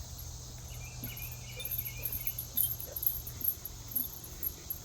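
Insects chirping steadily in a continuous outdoor chorus, with a few sharper, very high chirps in the middle.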